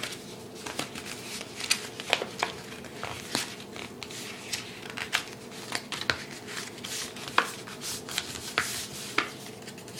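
A sheet of paper being folded and creased by hand, with irregular short crinkles and rustles and a sharper crackle now and then.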